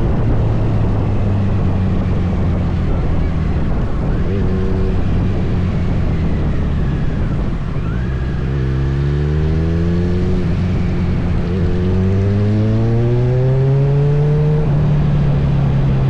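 Kawasaki Z900 inline-four engine running under way, rising in pitch twice in the second half as the bike accelerates, with a drop in pitch between the two rises.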